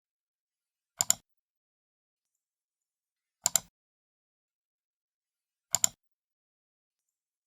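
Computer mouse left button clicked three times, each click a sharp press and release pair, about two and a half seconds apart.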